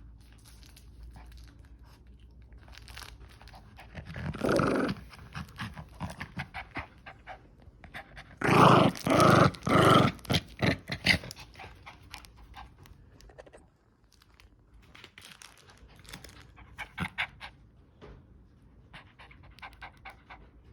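Puppy at play, panting and growling. The loudest part is a run of several close, strong sounds about halfway through, and small clicks and knocks go on throughout.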